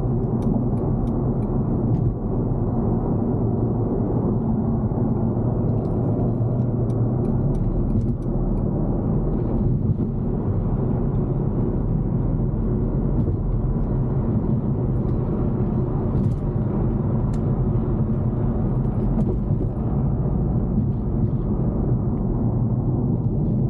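Steady low rumble of engine and road noise heard from inside a moving car's cabin, with a few faint clicks.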